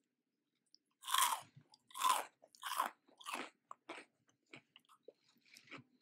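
A person chewing a piece of crunchy Cheetos-crusted fried popcorn chicken dipped in cheese sauce, close to the microphone. About a second in come four loud crunches roughly a second apart, then quieter chewing clicks.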